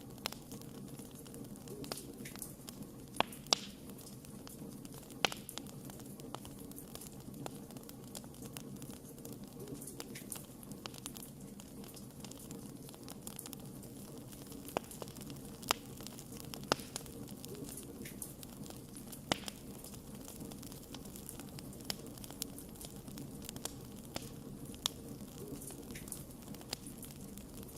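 Wood campfire burning: a steady low hiss of the flames with irregular sharp crackles and pops, several louder snaps scattered through.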